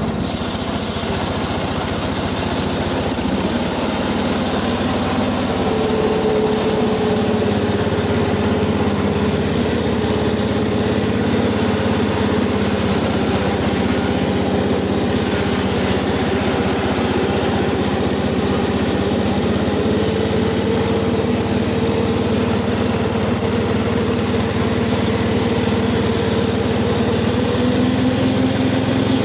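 Cub Cadet 80 garden tractor engine running steadily after a cold start, its speed shifting slightly a couple of times.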